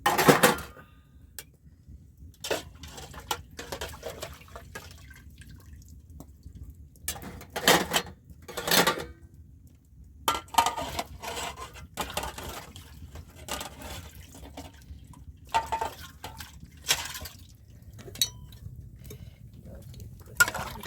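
Irregular clatter and knocks, like pots and dishes being handled, mixed with liquid sounds of water splashing or dripping; the loudest clatter comes right at the start.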